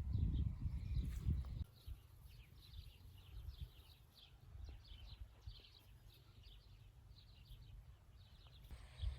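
Small songbirds chirping and singing in quick, short notes throughout. For the first second and a half a louder low rumbling with thumps sits under them, then only the birdsong remains.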